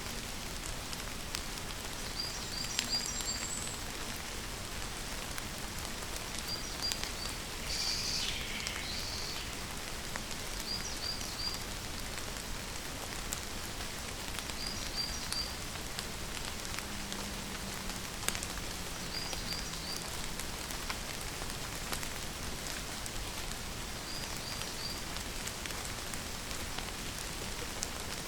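Steady rain falling. A bird repeats a short three-note chirp every few seconds, with one longer falling call about eight seconds in.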